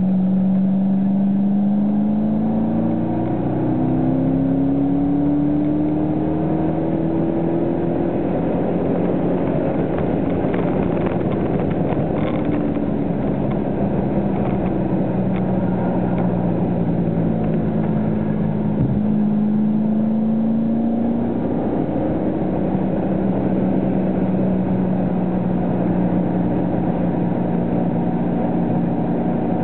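Car engine heard from inside the cabin while lapping a race track, its note climbing over the first several seconds, dropping back mid-way and rising again about twenty seconds in as the car accelerates and slows for corners, over steady road and wind noise.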